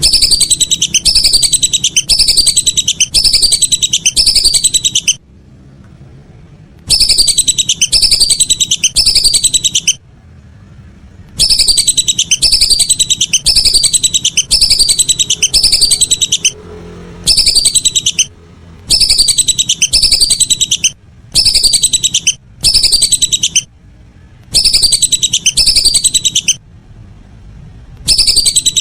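Lesser whistling duck (belibis) calls: quick, high whistled notes, each falling in pitch, repeated about three times a second in bursts of a few seconds with short pauses between, the kind of call recording used to lure the ducks.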